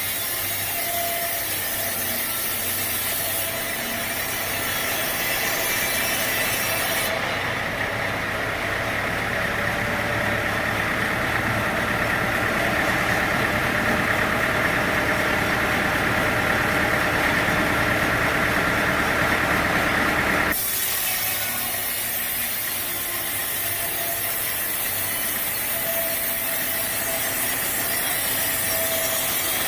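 Sawmill saw cutting through a teak log, with its engine running steadily. The sound changes abruptly about seven seconds in, growing heavier and lower, and switches back just as suddenly about twenty seconds in.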